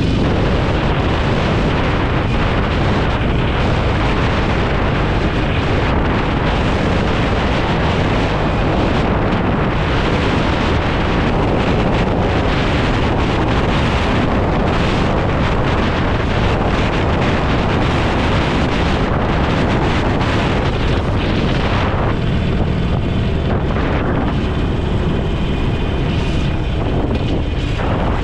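Motorcycle riding at speed: heavy wind rushing over the microphone over the steady drone of the engine and road. The wind noise eases a little about three-quarters of the way through.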